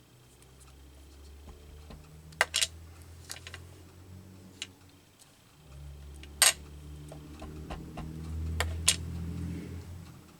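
Sharp taps and knocks of a rubber stamp being inked and pressed onto paper labels on a tabletop, a few loud ones about two and a half and six and a half seconds in. Underneath runs a low, steady hum that grows louder in the second half.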